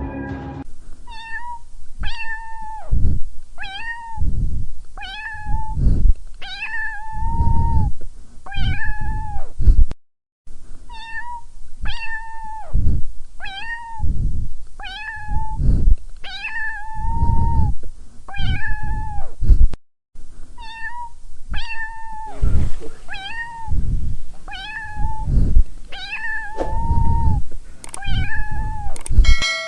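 Domestic cat meowing over and over, short pitched calls about one a second. The same run of meows repeats three times, with brief silent breaks about ten and twenty seconds in.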